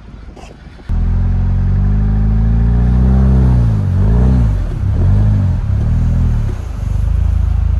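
Jeep Wrangler engine revving, stuck in snow: it comes in abruptly about a second in, rises and falls in pitch in several swells about once a second, and cuts off suddenly near the end.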